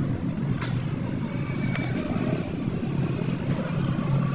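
Steady low rumble of a vehicle engine running, with a few faint clicks over it.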